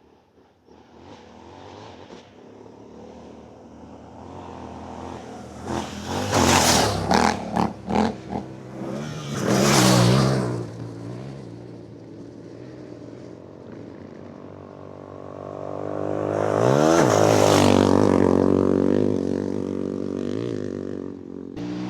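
Adventure motorcycle riding on a dirt trail, its engine revving up and down as it is ridden, with loud rushes of rushing noise between about six and ten seconds in and a strong rise and fall of the revs around the seventeen-second mark.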